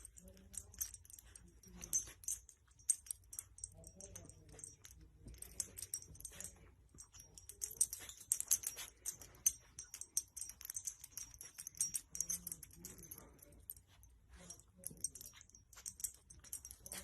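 Rapid light metallic jingling and clicking, coming and going in bursts, with faint low vocal sounds here and there.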